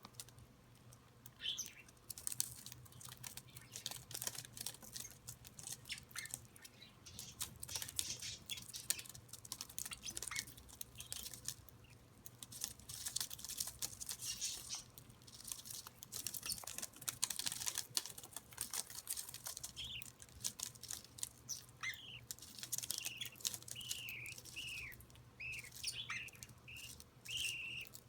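Young budgerigars and an adult male shuffling and scratching, with many quick clicks of feet and beaks. Short chirping calls come now and then and grow frequent in the last third.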